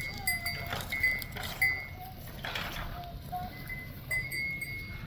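Bells on a flock of livestock ringing on and off as the animals move, with a few faint higher calls in between.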